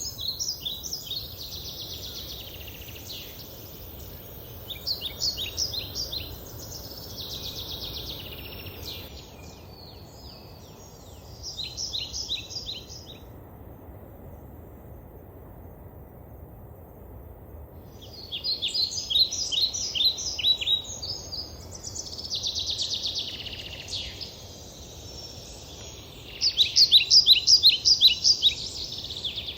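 Songbirds singing in repeated phrases of rapid trilled notes, with a lull of a few seconds in the middle and the loudest trill near the end, over a steady low background noise.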